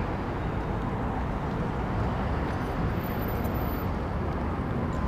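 Steady low rumble of vehicle engines, with no change in level.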